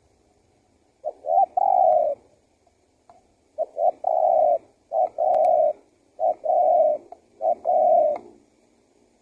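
Spotted dove (tekukur) singing its cooing song: about five low phrases a second or so apart, each one or two short notes followed by a longer drawn-out coo.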